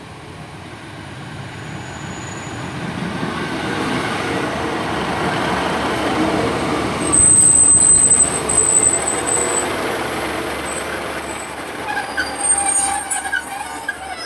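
Class 150 diesel multiple unit pulling into the platform, its running noise building as it approaches, then a loud high-pitched brake squeal about seven seconds in lasting around two seconds, with smaller squeaks as it comes to a stand near the end.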